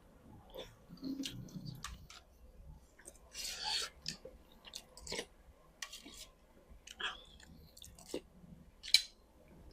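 Close-up chewing and mouth sounds of a person eating, with scattered soft smacks and clicks and a short noisy burst about three and a half seconds in.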